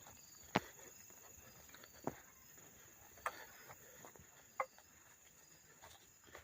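Night insects: a steady high buzz with repeated short cricket chirps. Four sharp clicks or knocks come spread through it, the first the loudest.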